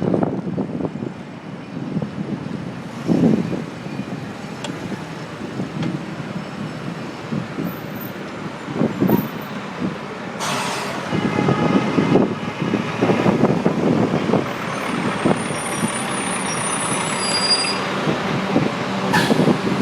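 Bicycle riding on city streets, picked up by a phone mounted on the handlebars: constant rattling and knocks from the bike jolting over the road surface, with traffic around. A sharp hiss cuts in about ten seconds in.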